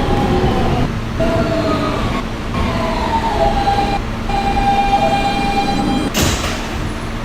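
Kawasaki R160B subway car's Siemens propulsion whining in several tones that glide down in pitch and then hold steady, over the rumble of the train braking into a station. About six seconds in, a short burst of air hiss follows.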